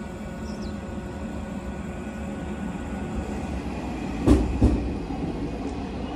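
A JR West 223-series two-car electric train pulling into a station platform at low speed, with a steady rolling rumble. About four seconds in, as the front of the train draws level, two sharp wheel clacks ring out, the loudest moment.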